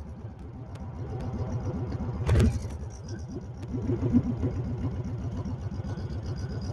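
2019 Honda Fury's 1300cc V-twin engine running steadily under way, a low pulsing throb through its pipes, with one short, louder burst a little over two seconds in.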